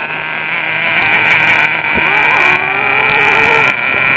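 Small nitro glow engine of an RC truck running at high revs, a steady high-pitched whine.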